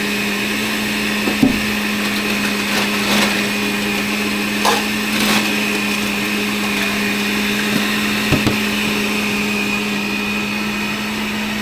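Countertop blender running at a steady speed, mixing cold brew coffee with cashew butter into an iced drink, with a few light knocks from the jar.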